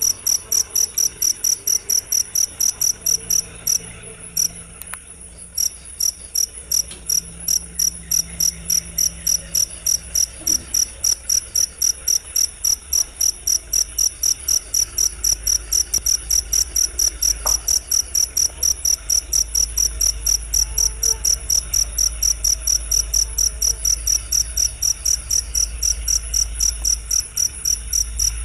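Cricket chirping in a fast, even rhythm of about four or five high chirps a second, with a short break about four and a half seconds in, over a low background hum.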